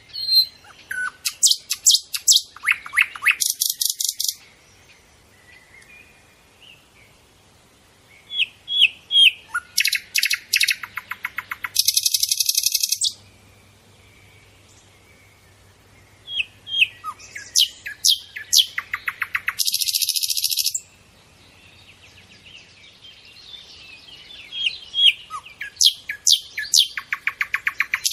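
Bird song in a phrase repeated about every eight seconds: a few quick rising chirps, then a fast trill, then a dense high buzzy rattle, with quieter pauses between the phrases.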